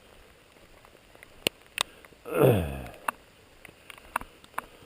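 Scattered sharp ticks of raindrops striking close to the microphone. About two seconds in comes a loud, short vocal sound from a man, sliding down in pitch.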